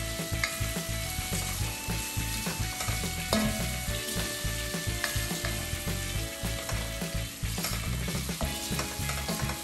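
Beef, onions and ginger-garlic paste sizzling as they fry in a pot, with repeated scraping and knocking as the mixture is stirred and turned.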